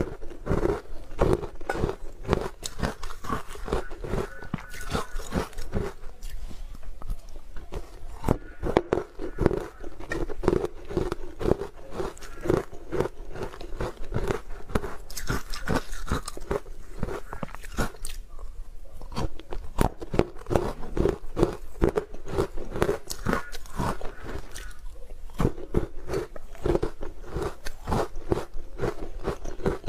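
Close-miked biting and chewing of hard frozen ice: crunch after crunch in quick succession, with a couple of brief pauses.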